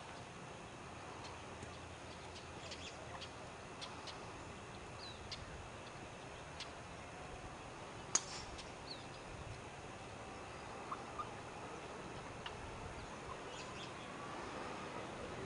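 Quiet outdoor ambience with small birds chirping now and then, short high chirps and ticks. A single sharp click stands out about halfway through.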